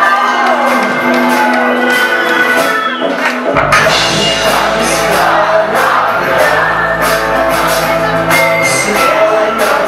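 Live rock band playing in a large hall, with voices singing and shouting along. The bass and full band come in suddenly about three and a half seconds in.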